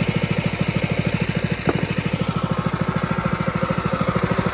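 Predator 212 single-cylinder engine driving a pressure washer, running steadily with an even pulsing beat while it is being broken in. A short click a little under two seconds in.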